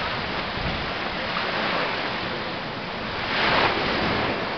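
Ocean surf washing on the shore, a steady rush with one wave breaking louder about three and a half seconds in.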